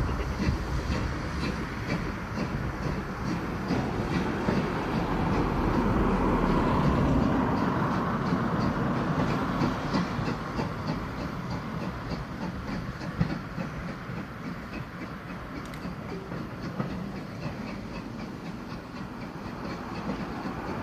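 Passenger coaches rolling away along the track, their wheels clicking over the rail joints in a steady rhythm. The sound swells a few seconds in, then fades as the train draws off.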